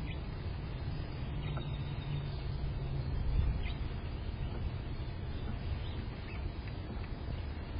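A few faint, short bird chirps scattered over a steady low rumble.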